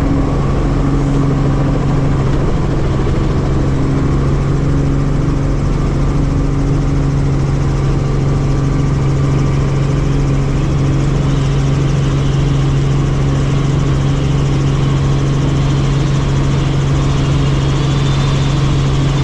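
Helicopter in flight: a loud, steady engine and rotor drone with a strong low hum that holds one pitch.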